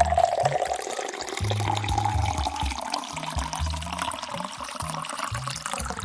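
Liquid pouring steadily into a glass, its pitch creeping up a little as it fills, over children's background music with a bass line.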